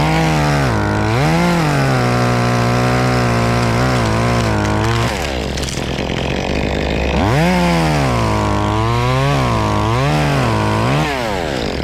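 Chainsaw running, revved up and down several times, with a long steady stretch at constant speed in between.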